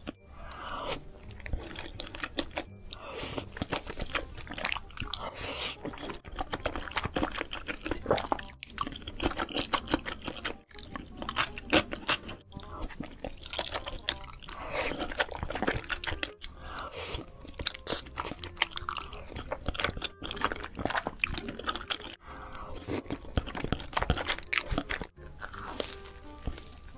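Close-miked eating: wet chewing of soft sauce-coated wide noodles, and crunchy bites into a fried Korean corn dog, a quick run of sharp crackles and clicks, with music playing underneath.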